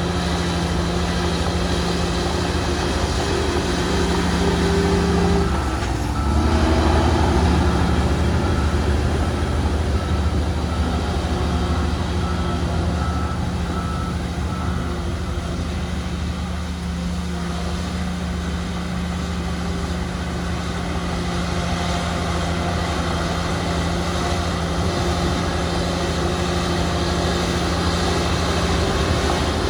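Diesel engines of heavy earthmoving machinery running steadily. About six seconds in the engine note dips, then comes back louder. A faint repeated beep sounds for several seconds in the middle.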